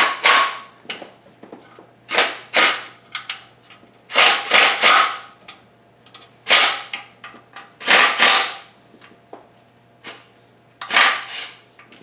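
Impact wrench firing in short bursts, about seven times, often two in quick succession, as it breaks loose and spins out the oil pan's 10 mm bolts.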